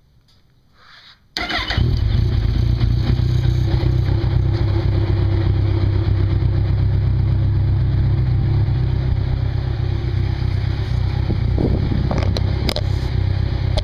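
2012 Kawasaki Ninja 1000's inline-four engine starting about a second and a half in, then idling steadily through Vance & Hines CS One slip-on exhausts fitted with 2-inch baffles.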